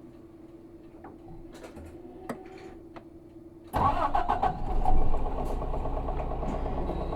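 Isuzu Erga bus's 6HK1 inline-six diesel cranking and starting about two-thirds of the way in, after sitting switched off at a stop. It then idles steadily. Before the start there is only a quiet cabin hum and a few clicks.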